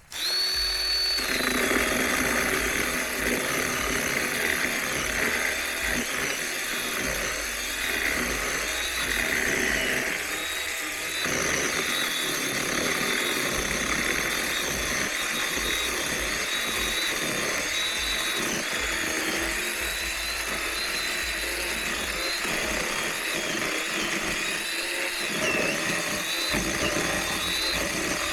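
Small electric chainsaw starting suddenly and running steadily through wood, its high motor whine dipping slightly in pitch now and then as the chain takes load.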